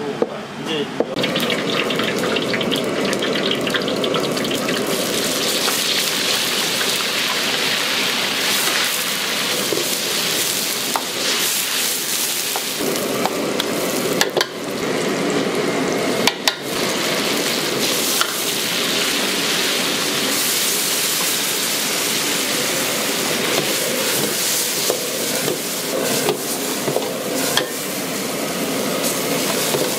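Food sizzling and frying in a hot wok while it is stirred, with a few sharp knocks from the cooking utensils.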